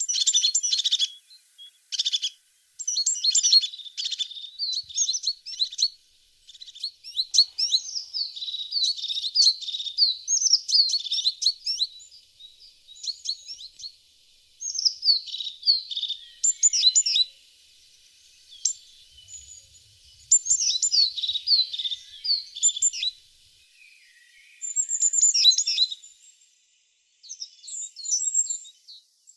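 Tits singing: phrases of rapid, high chirps and trills, one after another with brief pauses between them.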